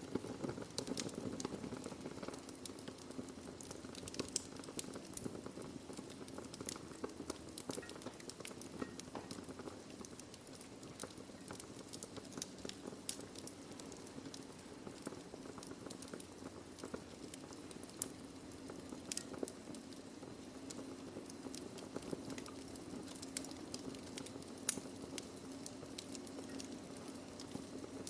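Wood fire burning in a fireplace: a steady low rumble of flame under constant small crackles, with scattered louder pops, the sharpest about 25 seconds in.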